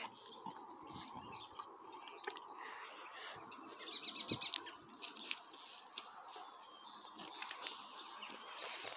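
Faint outdoor ambience with small birds chirping, including a quick run of high chirps about four seconds in, and a few light scattered clicks.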